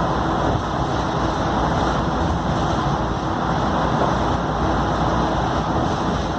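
Scania K310UD double-decker bus running steadily, a low engine rumble under a constant wash of road and running noise, with no change in pace.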